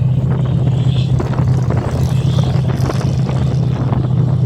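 A vehicle engine drones steadily at one unchanging pitch, with a rough noisy hiss over it.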